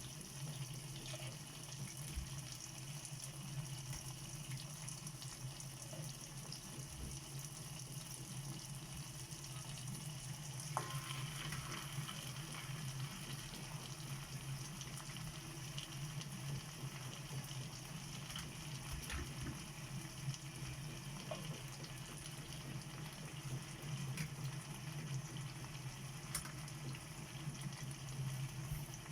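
Food sizzling quietly in a frying pan, steady throughout, over a constant low hum, with a few light clicks.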